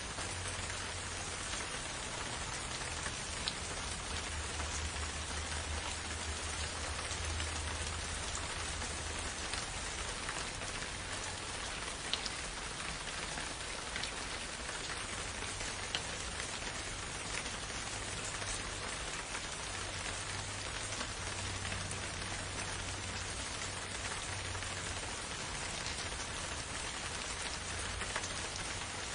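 Steady rain falling, an even hiss, with now and then a single louder drop ticking close by.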